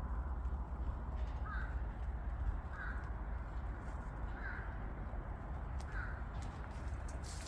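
A bird calling four times, about a second and a half apart, over a steady low rumble.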